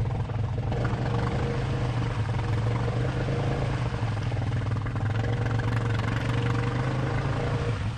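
ATV engine running hard under throttle at a steady, even pitch while the machine pushes through a muddy rut, easing off near the end.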